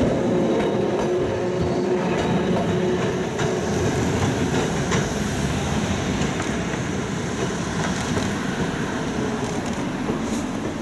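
Streetcar, a former Tokyo Toden tram car, running on the rails through a sharp curve: a steady rumble of wheels on track with a few sharp clicks, and a low hum in the first few seconds.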